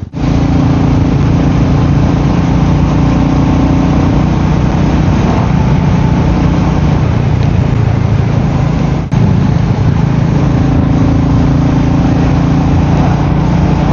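Royal Enfield Meteor 350's single-cylinder engine running at a steady cruise, with wind and road noise on the microphone. The sound drops out for an instant at the very start and again about nine seconds in.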